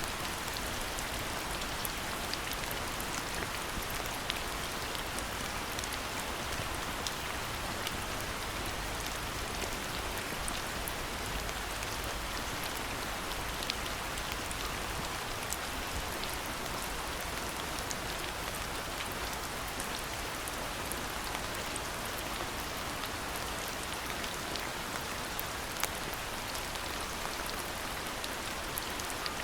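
Steady rain falling, an even hiss dotted with many small, scattered drop ticks.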